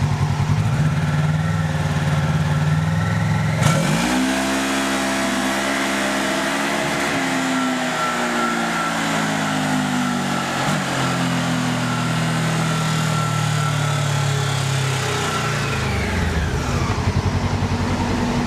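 Stock 2011 Polaris RZR XP 900's 875 cc parallel-twin engine making a wide-open-throttle dyno pull. It runs low at first, then about four seconds in the revs jump and keep climbing slowly for some twelve seconds, then drop back near the end.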